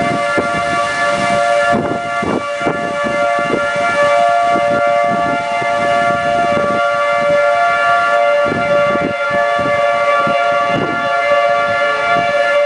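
Outdoor civil-defense warning siren sounding a steady multi-tone chord during a severe storm, with irregular low gusts of wind buffeting the microphone.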